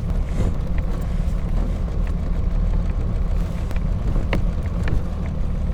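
AC Buckland running on the road, heard from inside the car: a steady low engine and road rumble with scattered clicks and rattles from the bodywork.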